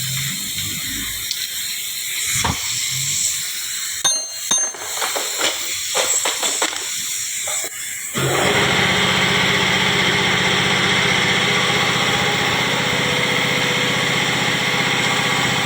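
Metal parts clinking and tapping a few times, then about eight seconds in a machine starts abruptly and runs with a loud, steady hum.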